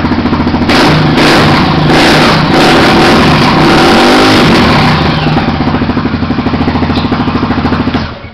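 Honda XR 250 Tornado's single-cylinder four-stroke engine idling with a steady beat, then revved up about a second in and held for about four seconds, dipping and picking up again partway through, before dropping back to idle.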